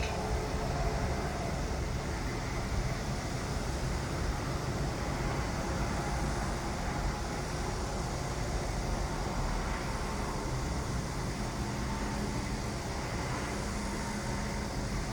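Construction machinery running: a steady, engine-like low rumble with no let-up, and a faint steady hum joining about eleven seconds in.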